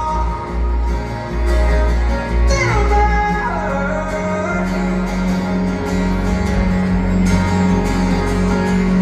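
Live band performing a ballad with guitar accompaniment and a sung vocal line that slides downward in pitch about three seconds in, over a steady low bass note.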